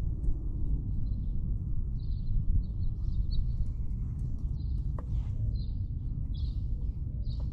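Small birds chirping in short high notes about every half second, over a steady low rumble on the collar-worn camera's microphone.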